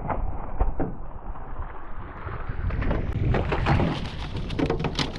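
Wind buffeting the microphone with a steady low rumble. Water splashes and knocks on a small fishing boat come in a cluster from about three seconds in.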